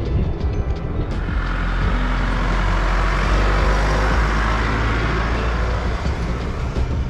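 A 4x4 vehicle engaged in low range, driving with a steady low engine rumble. A rush of noise swells about a second in and eases off near six seconds.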